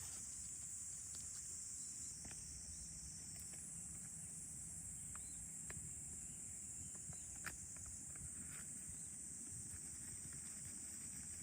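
A steady, high-pitched chorus of insects, with a few faint sharp clicks scattered through it.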